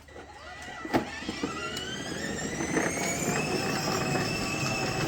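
Electric motor and gearbox of a child's battery ride-on toy tractor pulling away in forward gear: a whine that rises in pitch as it speeds up, then runs steadily. A click about a second in.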